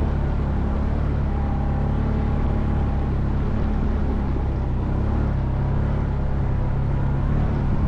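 ATV engine running steadily under way, at a fairly constant engine speed.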